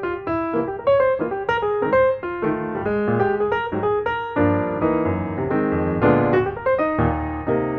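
Background music played on piano: a steady run of single notes, turning to fuller chords about halfway through.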